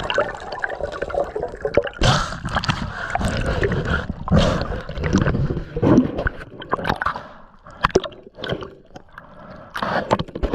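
Water gurgling and bubbling in irregular surges, with scattered sharp clicks, easing off for a couple of seconds near the end before picking up again.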